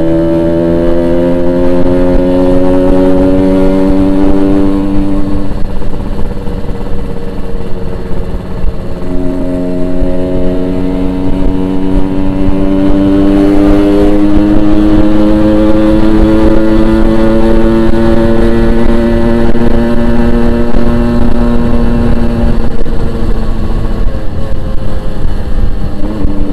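Yamaha RX-King two-stroke single-cylinder motorcycle engine running under way. Its pitch climbs slowly as it pulls, drops back at gear changes about five and nine seconds in, and falls again near the end.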